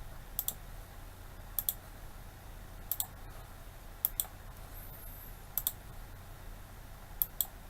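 Computer mouse button clicking, six quick double clicks (press and release) spaced a little over a second apart, over a faint steady low hum.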